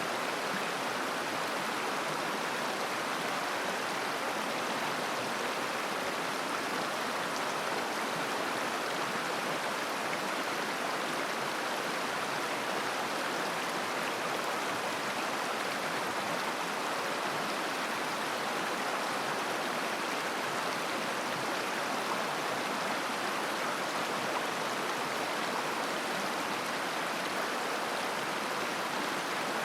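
A mountain river flowing over rocks: a steady, even rushing and babbling of water.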